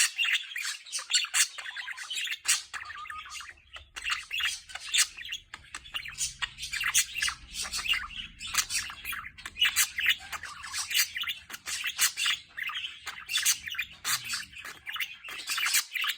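Budgerigar singing: a continuous rapid warble of chirps, clicks and squawky chatter.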